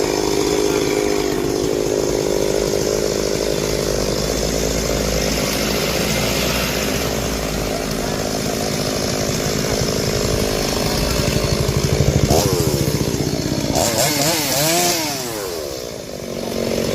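Chainsaw running, its engine speeding up and slowing down several times toward the end before easing off.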